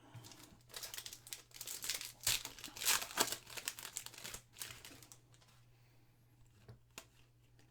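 Foil trading-card pack wrapper being torn open and crumpled, a dense crinkling that runs for about four seconds and is loudest around the middle, followed by a couple of light clicks.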